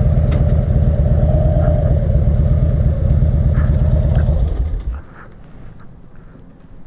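Harley-Davidson Dyna Switchback's V-twin engine running with a pulsing low beat, then shut off about five seconds in, leaving quiet background.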